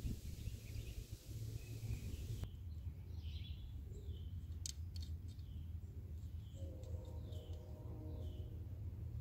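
Outdoor ambience: a bird chirping over and over in short falling calls about once a second, over a steady low rumble. A couple of sharp clicks come about halfway through.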